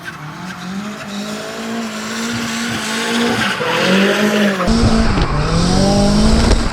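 Nissan S14's turbocharged SR20DET four-cylinder revving hard through a drift, its pitch rising and falling as the throttle is worked, over tyres squealing. A heavier low rumble comes in about two-thirds of the way through.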